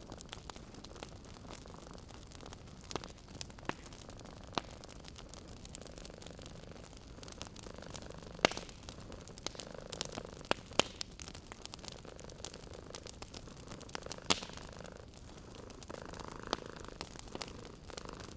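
Wood fire crackling with scattered sharp pops, the loudest about halfway through, over a cat purring in slow swells.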